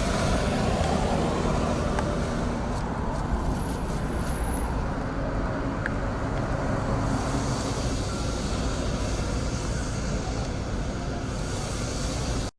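Steady outdoor rumble of strong wind and road traffic, the wind buffeting the microphone; it cuts off suddenly at the end.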